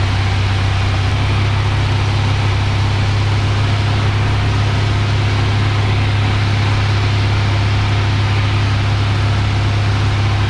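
Cessna 172F's Continental O-300 six-cylinder engine and propeller droning steadily in flight, with an even low hum and no change in power.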